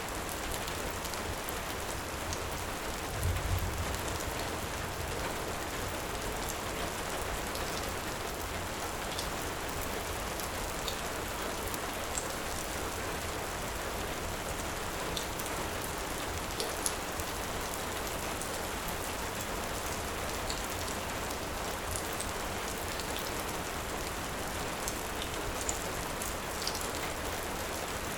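Steady heavy rain hissing, with sparse sharp crackles from a wood fire. A brief low rumble comes about three seconds in.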